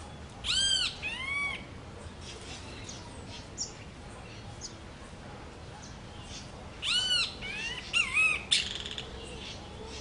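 Rufous hornero calling: two loud notes that each rise and fall in pitch about half a second in, then a second group of three or four such notes around seven to eight and a half seconds.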